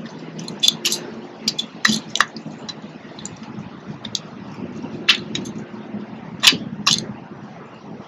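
Backyard birds at a feeder giving a scattering of short, sharp chip calls, the loudest about six and a half seconds in, over a steady low rumble of distant traffic.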